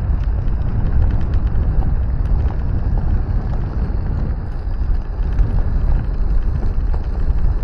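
Riding noise on an electric dirt bike: steady low wind rumble on the microphone and tyres over dirt, with many small knocks and rattles from the rough trail.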